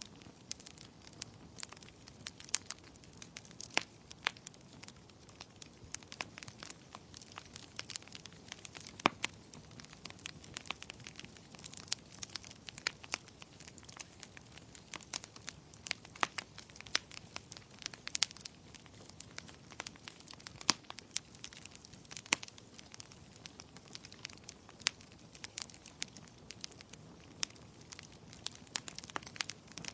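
Wood fire burning in a fireplace, crackling with frequent irregular sharp pops and snaps over a soft hiss.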